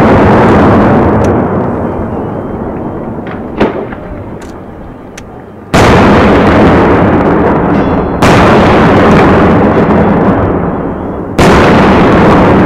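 Fireworks shells bursting overhead in three heavy bangs a few seconds apart in the second half. Each bang is followed by a long rolling rumble that fades over several seconds. It opens on the fading rumble of an earlier bang, with one sharp crack partway through.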